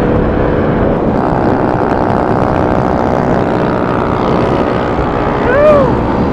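Motorcycle engines running steadily while riding, their pitch held even. Near the end comes a brief shout that rises and falls in pitch.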